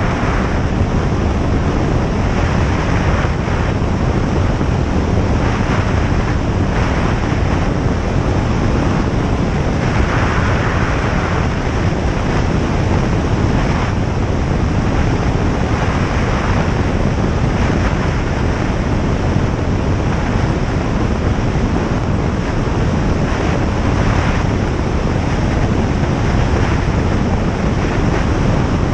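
Single-engine light aircraft's engine and propeller running steadily in flight, a constant loud drone mixed with airflow noise.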